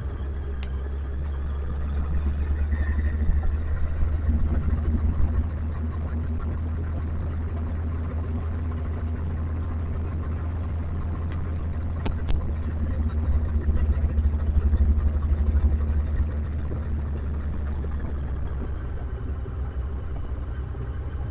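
Motorcycle engine running under way, with a heavy low rumble throughout. The sound swells louder twice, about two to five seconds in and again from about twelve to sixteen seconds, and a few sharp clicks are heard.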